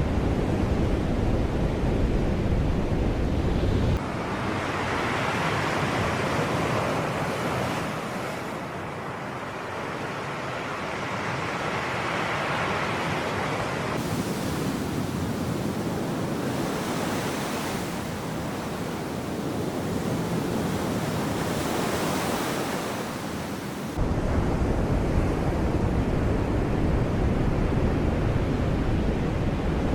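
Sea waves breaking and washing ashore, the surf swelling and ebbing several times. A heavy low rumble, wind on the microphone, fills the first few seconds, drops out abruptly, and returns abruptly for the last several seconds.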